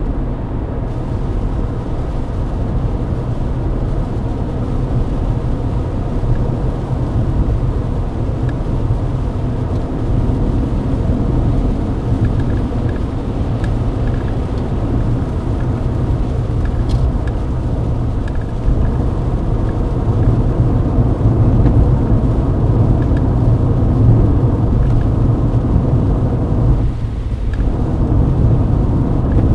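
Mercedes-Benz W124 driving at highway speed on a wet road, heard from inside the cabin: a steady low rumble of engine and tyres.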